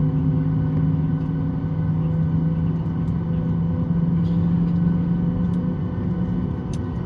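Steady cabin noise aboard a Boeing 737 MAX 8 on the ground: a low rumble with a constant, slightly humming tone, with a faint click near the end.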